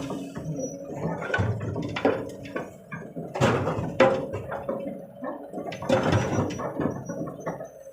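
Hydraulic excavator at work: its diesel engine running steadily under a string of irregular clattering thuds and rushes of earth and stones handled by the bucket.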